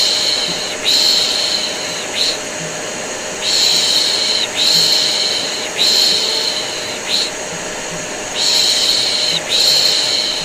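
Repeated long "shh" shushing sounds, about a second each and mostly in pairs with short breaks, over the steady running hum of a vacuum cleaner, used together as white noise to soothe a baby.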